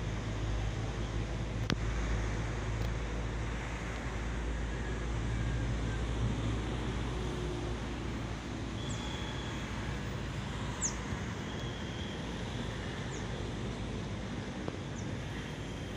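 Wind buffeting the microphone: a steady low rumble with a hiss over it. A few brief high chirps fall quickly in pitch in the second half, and there is a single click early on.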